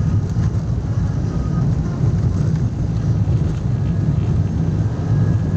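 Steady low rumble of a moving vehicle: engine and road noise at an even speed.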